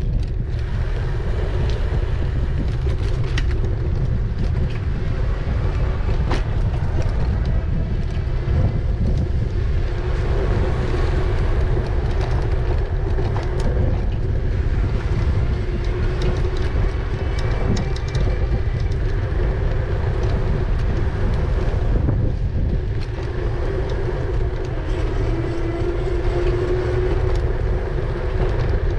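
E-bike riding along a promenade: wind buffeting the microphone in a steady low rumble, over a wavering hum from the moving bike and a few light clicks and knocks.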